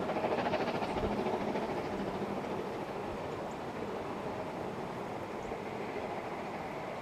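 Narrow-gauge steam train running, a steady rumble of the train on the rails that is loudest in the first couple of seconds and then eases off a little.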